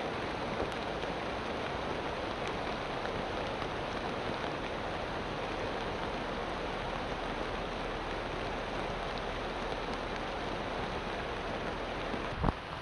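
Light rain pattering on the plastic film of a vinyl greenhouse, a dense, steady drumming that sounds like a heavy shower. A single low thump near the end.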